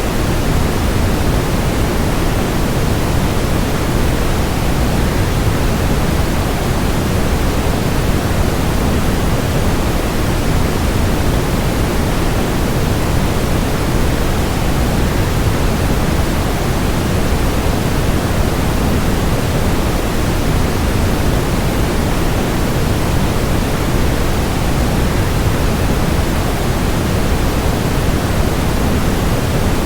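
A waterfall's falling water, an even, unchanging rush that is heavier in the low end.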